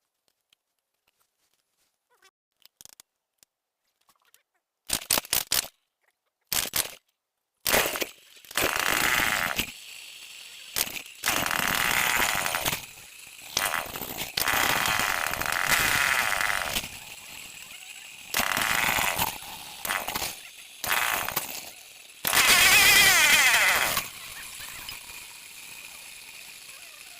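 Stihl 070 two-stroke chainsaw being started: a few short sputters, then it catches and runs at idle, revved up again and again in surges of a second or two, one of them rising and falling in pitch. This is the saw whose carburettor had been flooding, making it hard to start.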